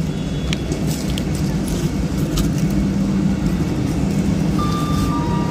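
Vande Bharat Express electric train set running slowly into the platform: a steady low rumble of wheels on rail with a constant electric hum, a few sharp clicks in the first couple of seconds, and a brief high tone near the end.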